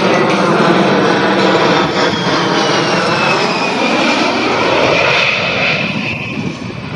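F-16 fighter jet flying past, its engine noise loud and dense, with a high whine that falls in pitch as it goes by. The sound eases off near the end.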